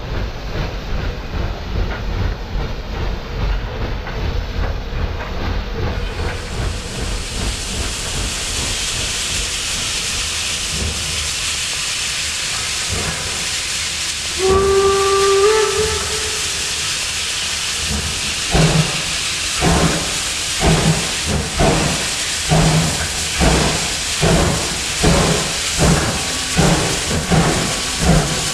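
Steam locomotive: a low rumble gives way to a loud steam hiss, then a short whistle sounds about halfway through. Near two-thirds of the way in, exhaust chuffs begin, about one a second and quickening as the engine pulls away.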